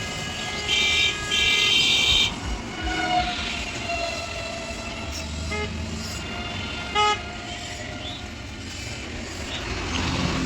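Vehicle horns honking: two long honks about a second in, then two short toots around the middle, over a steady low rumble of traffic.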